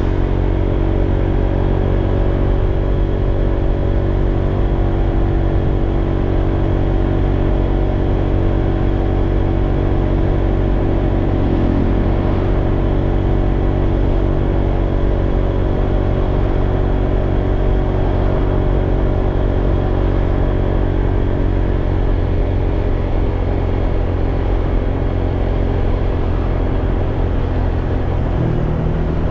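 Honda PCX scooter's single-cylinder four-stroke engine running at a steady speed, its note changing slightly near the end.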